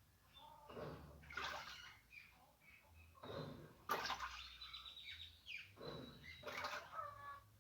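Water sloshing in an Easy washing machine's tub in irregular surges, with birds chirping in the background.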